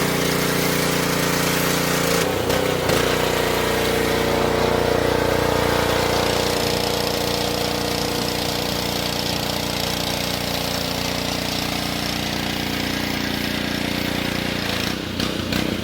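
An engine running steadily at constant speed, with a strong even hiss over it.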